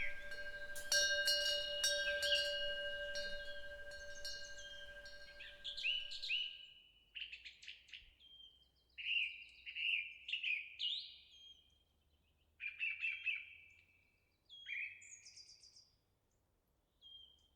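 A temple's bronze eave wind bell rings, with a couple of fresh strikes early on, and fades out about six seconds in. Small birds chirp throughout, and after the bell dies away only their song is left: short falling chirps in quick runs, separated by pauses.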